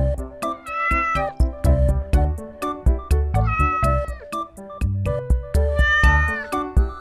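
A cat meowing three times, each a drawn-out call of about a second, over background music with a steady beat.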